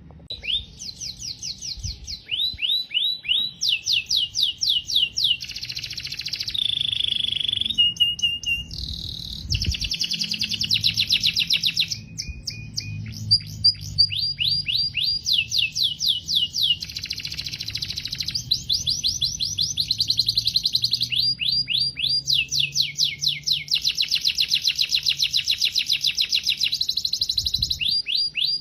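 Domestic canary singing a long continuous song: rapid trills of repeated falling notes, switching every second or two between faster and slower rolls and a few held whistled tones, with short pauses between phrases.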